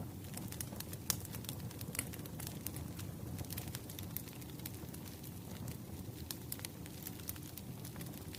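Wood fire crackling: irregular sharp pops and snaps over a steady low rustle of burning logs, with one louder snap about a second in.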